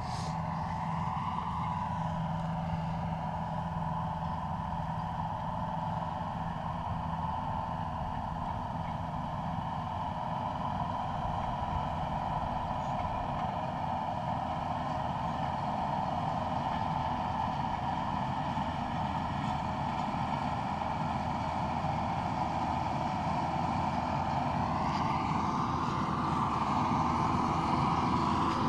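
Farm tractor engine running steadily. Its note drops about two seconds in and climbs again near the end.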